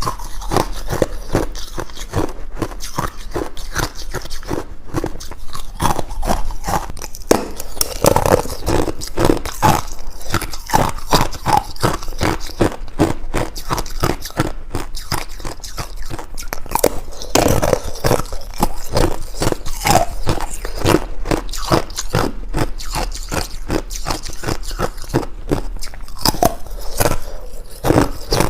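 Ice being bitten and chewed close to the microphone: a dense, irregular run of sharp crunches and cracks, several a second, without a break.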